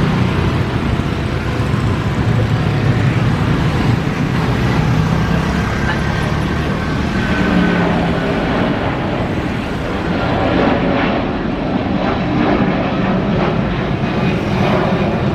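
Jet airliner's engines, a loud steady rumble that holds through the whole stretch, dipping slightly about ten seconds in.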